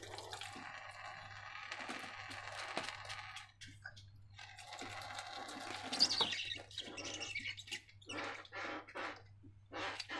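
Squeaky rubbing and squishing from slime and rubber balloons handled close to the microphone. The sound is continuous at first, then breaks into short separate squelches from about eight seconds in.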